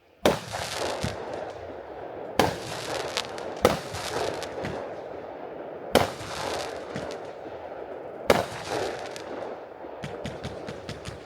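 A 45-shot, 500 g consumer firework cake (Superior SFX Neon Cosmic Rain) firing. Five sharp shots come about two seconds apart, each followed by a dense crackle from the crackling crowns. Near the end the cake switches to rapid fire, about five pops a second.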